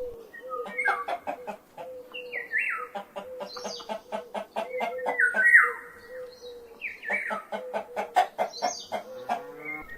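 Hen clucking: runs of quick short clucks broken by several drawn-out calls that fall in pitch, over a steady low hum.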